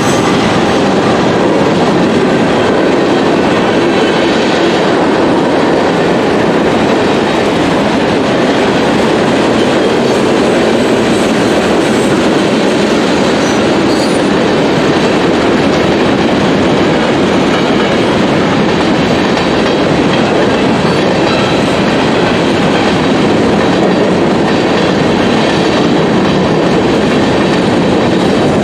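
Freight cars of a manifest train rolling past at close range: a steady, loud rumble of steel wheels on rail with a clickety-clack.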